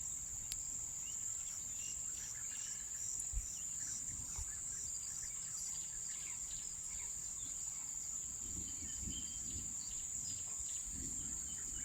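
Field ambience of insects chirring in one steady high-pitched tone, with scattered faint bird chirps throughout.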